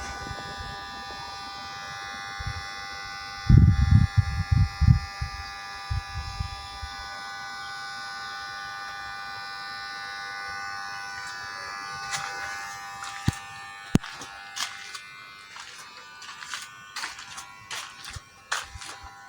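A steady electrical buzzing hum that fades out about fifteen seconds in. A run of heavy thumps comes a few seconds in, and scattered clicks and knocks follow in the second half.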